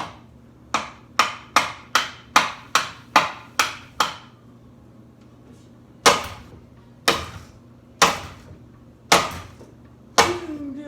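Hammer striking a ceiling fan blade: about ten quick blows in the first four seconds, then a pause and five heavier blows about a second apart, each with a short ring.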